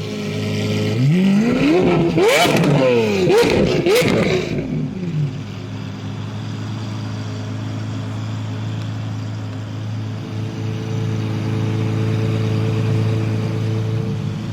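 Lamborghini Aventador SV's V12 with a Sterling Performance exhaust idling, then revved twice in quick succession about a second in, with a few sharp exhaust cracks among the revs, before dropping back to a steady idle.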